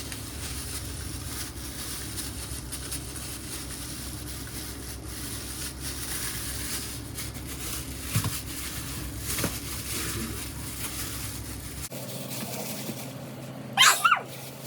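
Plastic trash bag crinkling and rustling as chicken is kneaded in seasoned flour inside it, over a steady background hiss. Near the end comes a short, loud burst from a person's voice.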